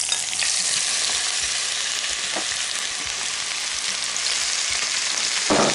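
Chopped onions sizzling as they are tipped into hot sunflower oil in a frying pan: a steady, loud hiss. There is a brief clatter near the end.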